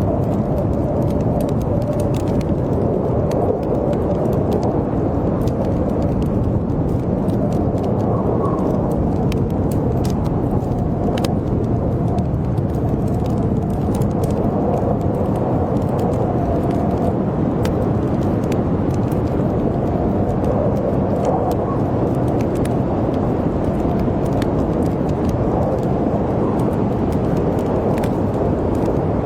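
Howling blizzard wind, a steady low rush with a faint wavering whistle in it, with the small sharp crackles of a wood fire scattered over it.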